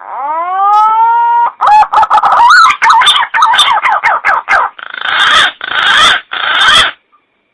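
Green pigeon (punai) song played as a hunter's lure call. It opens with a clear rising whistle, runs into a string of short wavering, warbling notes, and ends in three long harsh, rasping notes.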